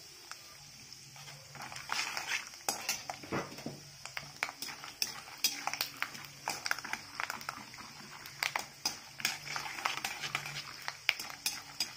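Peanuts frying in hot oil in a kadhai with a faint steady sizzle, while a perforated steel slotted spoon stirs them, scraping and clinking against the pan from about a second and a half in.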